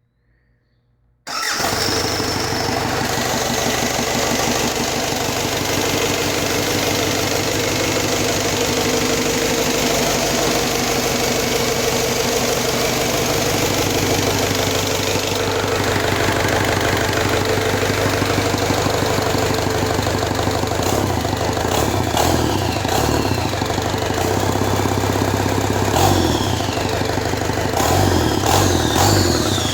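Cummins B3.3 four-cylinder turbo diesel engine starting about a second in and running steadily. In the last several seconds it is revved a few times, with rising and falling whines over the engine note.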